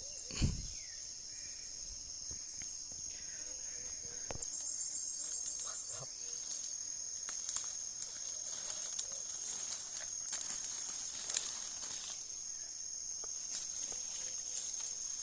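Steady high-pitched drone of insects, crickets or cicadas, with a short low thump about half a second in and a few sharp ticks and rustles later.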